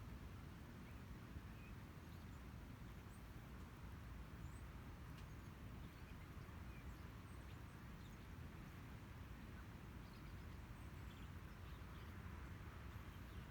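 Quiet outdoor ambience: a steady low rumble with a scattering of faint, short, high bird chirps.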